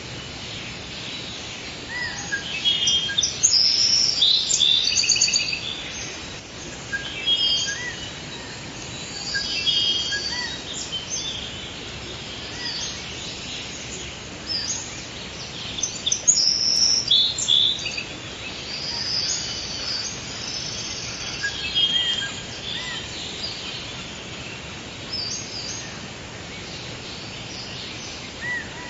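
Forest ambience: several birds chirping and trilling in bursts over a steady background hiss.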